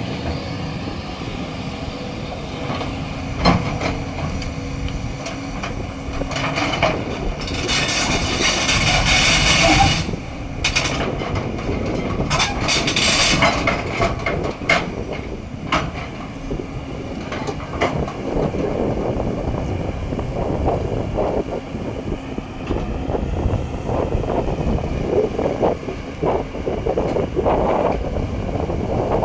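Excavator at work: its engine runs steadily under clanks and knocks, with two bursts of loud hiss, about eight and twelve seconds in.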